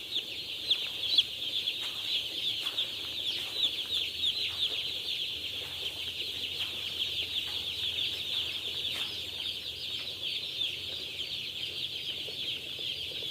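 A dense chorus of hundreds of day-old broiler chicks peeping, with many short, falling cheeps overlapping without pause. A couple of light knocks sound about a second in.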